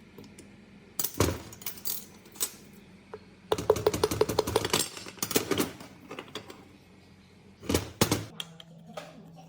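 Small metal parts clinking and rattling while being handled. There is a short burst about a second in, a longer run of rapid clatter in the middle, and two sharp knocks near the end.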